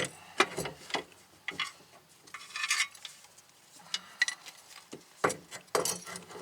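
Irregular metallic clinks and clanks of tools and bolts against suspension parts during reassembly of a rear wheel hub, with a brief scrape or rustle about midway.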